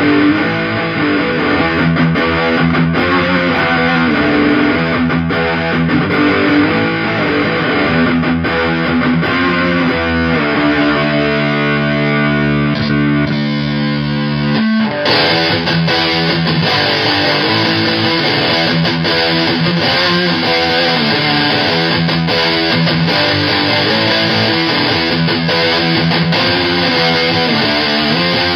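Heavily distorted electric guitar played through a fuzz pedal pushed by an overdrive, into a solid-state amp: chugging riffs, a chord left ringing for a few seconds past the middle, then the tone turns abruptly brighter and harsher as play resumes.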